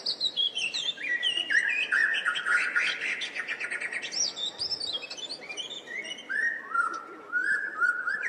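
Birds chirping together: many overlapping short whistled calls, each sliding down in pitch, one after another.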